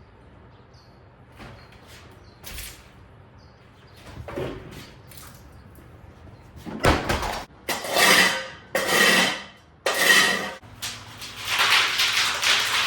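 Handling noise while working on a disconnected water heater: a few light knocks and taps, then from about seven seconds in a run of five loud scrapes, each under a second long.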